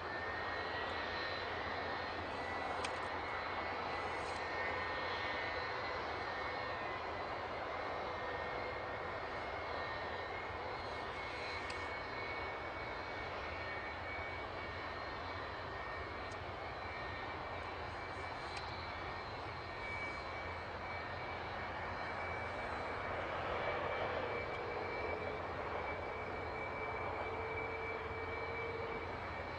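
Jet airliner engine running steadily, a constant rushing noise with a steady high whine.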